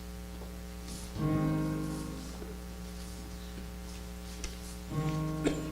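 Piano playing the introduction to a hymn: a chord struck about a second in that slowly dies away, and another near the end, over a steady electrical hum.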